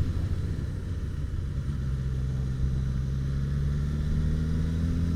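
Motorcycle engine running under the rider, its pitch rising slowly as it accelerates gently out of a tight bend, with wind and road noise.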